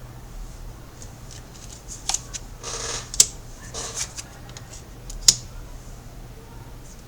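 Tarot cards being handled on a table: two short sliding swishes and a few sharp taps as cards are drawn and laid down.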